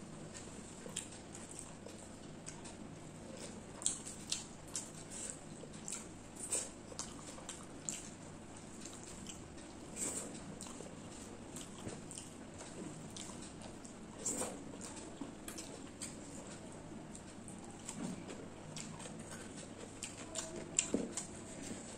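Close-up eating sounds from a mouthful of rice and chicken curry eaten by hand: irregular wet chewing clicks and lip smacks, with soft squelches of fingers mixing the curry into the rice.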